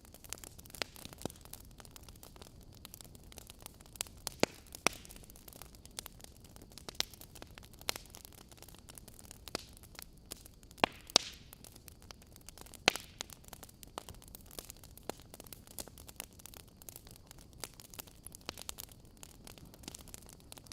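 Wood fire crackling in a fireplace: irregular sharp pops and snaps over a low steady hiss, with a few louder pops, the strongest near the middle.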